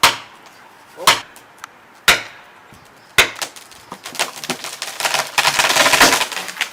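Four sharp blows on wood about a second apart, then a dense crackle of splintering wood that builds near the end.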